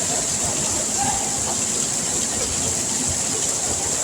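Heavy tropical rain pouring down, a steady unbroken hiss loud enough to drown out a voice.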